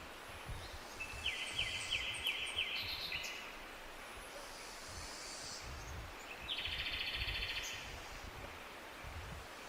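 A songbird singing two rapid trilled phrases, the first about a second in and the second about six and a half seconds in, over a steady low background rumble.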